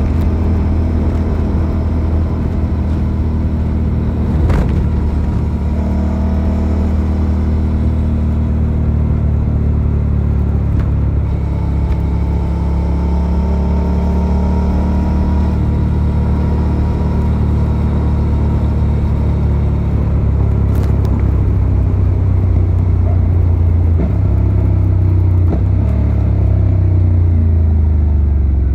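Suzuki SV650's V-twin engine running under way, heard from on the bike, its pitch slowly rising and falling with the revs. A couple of sharp clicks break through, one a few seconds in and one about two-thirds of the way through.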